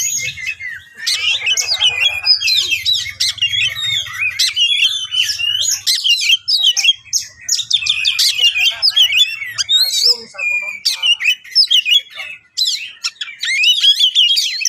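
Oriental magpie-robin singing a fast, unbroken stream of varied whistles, trills and chirps with sharp clicking notes, the rapid full song that keepers call 'ngeplay'.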